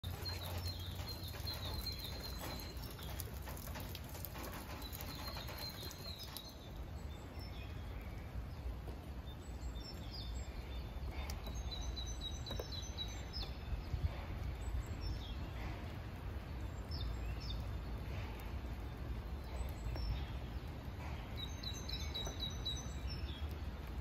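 Small birds chirping in short repeated bursts, a few series of quick high chirps scattered throughout, over a steady low outdoor rumble.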